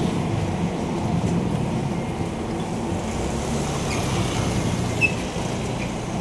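Street traffic in heavy rain: a steady low rumble of vehicles running on a wet road, with a few short high squeaks from about three seconds in and a brief sharp knock about five seconds in.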